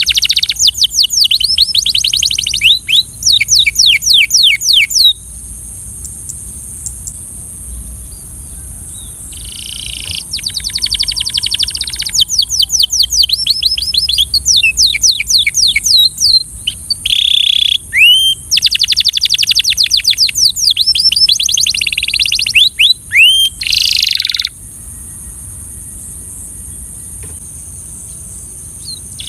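Belgian canary singing in long phrases of rapid trills made of repeated, high, downward-sweeping notes, with pauses of a few seconds between phrases. A steady high-pitched hiss runs underneath throughout.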